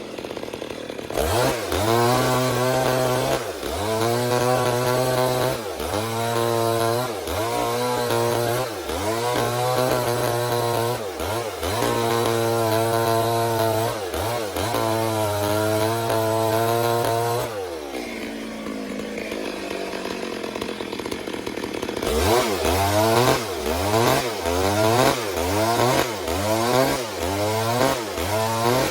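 Two-stroke Stihl chainsaw ripping lengthwise through a log in a milling cut. Its engine pitch rises and dips over and over, about once a second, as the chain bites under load. Past the middle it runs lower and steadier for a few seconds, then the surging resumes at a quicker pace.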